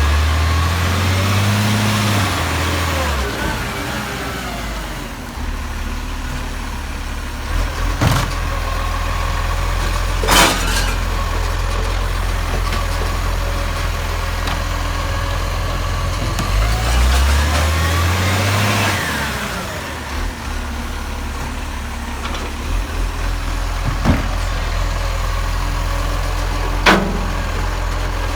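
Garbage truck engine running steadily, revving up and back down twice, with a few sharp knocks in between.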